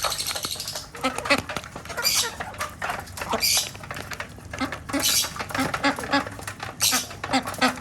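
A mixed flock of ducks, hens and parrots calling: short repeated duck quacks with shrill squawks every second or two, among many small taps and clicks.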